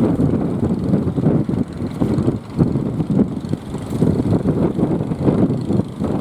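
Strong wind buffeting the microphone: a loud, low, rumbling noise that swells and drops in uneven gusts.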